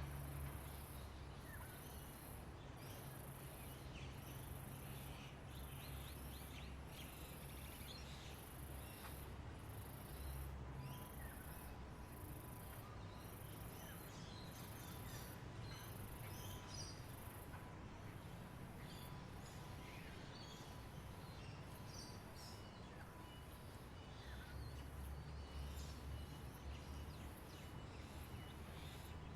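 Outdoor nature ambience: scattered short bird chirps over a high insect buzz that pulses about once a second, with a low steady rumble beneath.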